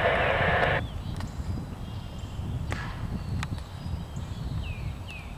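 An air-traffic-control radio transmission cuts off about a second in. A low outdoor rumble is left, with a few sharp clicks and two short falling chirps near the end.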